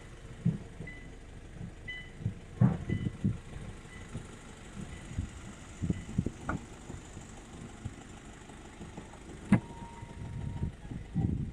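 Handling sounds of getting into a pickup truck's cab: scattered low thumps and knocks, with one sharp click about nine and a half seconds in, like a door latch.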